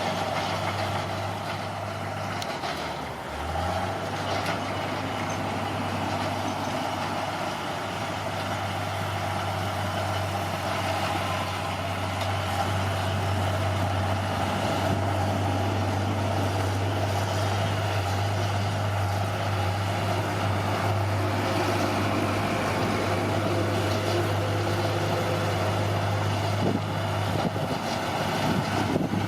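Heavy diesel engine of an earthmoving machine running steadily under load, with a constant low drone and a brief dip about three seconds in.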